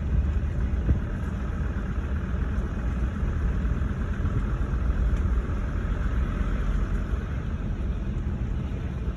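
Steady low engine and road rumble of a vehicle driving slowly.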